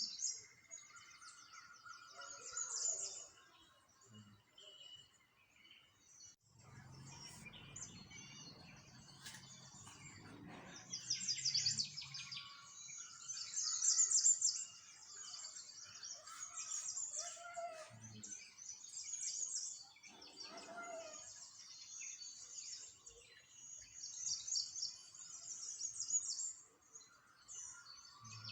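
Many small songbirds chirping and twittering in dense high trills, with a few lower calls among them. A low rumble rises under the birdsong about seven seconds in and fades out about five seconds later.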